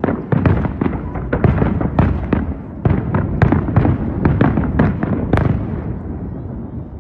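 Aerial fireworks going off in a rapid barrage, several bangs a second with booming echoes, the loudest about five and a half seconds in, then the bangs stop and a low rumble fades away.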